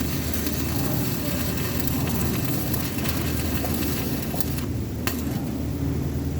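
Electric arc welding sizzling and crackling. The crackle cuts off about four and a half seconds in, leaving a few sharp pops, over a steady low hum.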